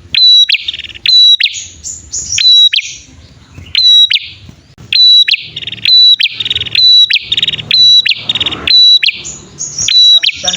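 Prenjak songbirds, a male and female, calling in a rapid series: sharp high chips about every half second alternating with fast buzzy trills. This is a lure call for drawing in wild prenjak and getting caged ones to sing.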